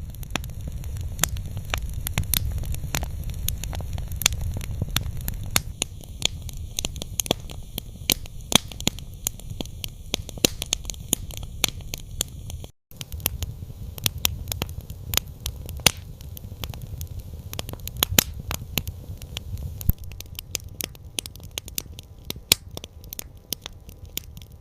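Campfire crackling, with irregular sharp pops and snaps over a steady low rumble of the flames. The sound drops out to silence for a moment about 13 seconds in, then resumes.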